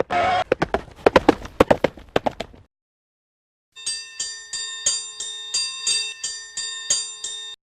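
A quick run of sharp clip-clop-like clicks for about two and a half seconds. After a brief gap comes a chime of bell-like struck notes, the same ringing tones repeated about three times a second until the end.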